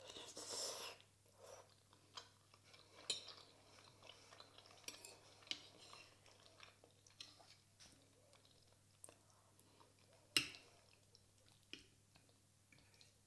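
Close-miked chewing and mouth sounds of someone eating soft food, mashed potatoes and chicken chop, with a short noisy burst at the start. Scattered light clicks of a metal fork against the plate, the sharpest about ten seconds in.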